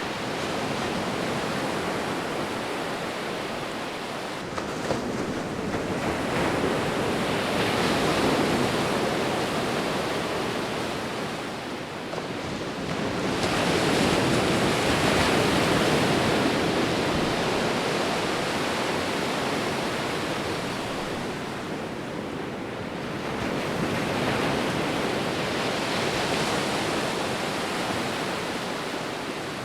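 Sea waves surging onto a shore, the surf swelling and fading in three long swells.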